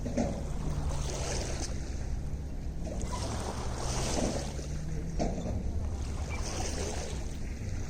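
Small waves lapping and splashing at the lake's edge in irregular washes every second or so, over a steady low rumble of wind on the microphone and a faint low hum.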